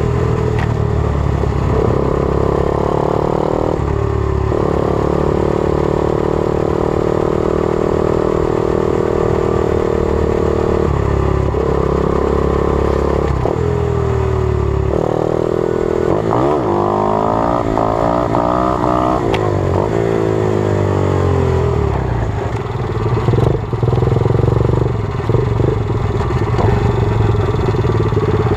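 120cc pit bike's single-cylinder four-stroke engine running under way, holding steady revs for several seconds, then revving up and down several times in quick succession past the middle, and settling to lower, rougher running near the end.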